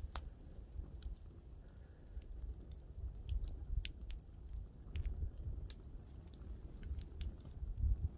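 Wood campfire burning, crackling with irregular sharp pops and snaps over a low steady rumble.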